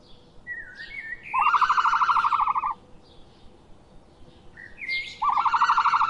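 Birdsong: two loud, fast trills, each lasting a little over a second and about four seconds apart, each led in by a short whistled note, with fainter high chirps in between.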